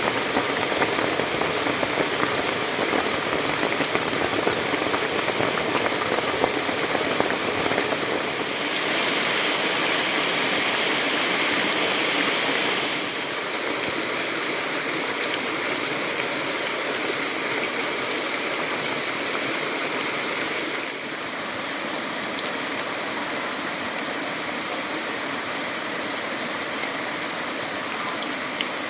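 Steady rush of heavily flowing water, a rain-swollen stream, with its level shifting abruptly a few times.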